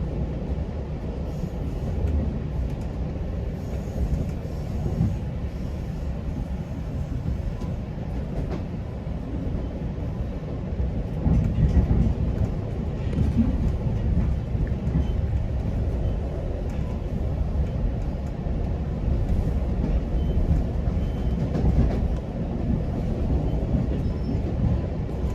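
GO Transit bilevel commuter train running along the track at speed, a steady low rumble of wheels and coach.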